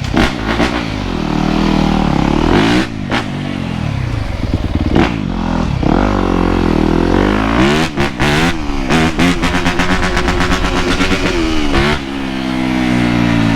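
Dirt bike engine revving up and down over and over, its pitch rising and falling, with a few sharp clicks.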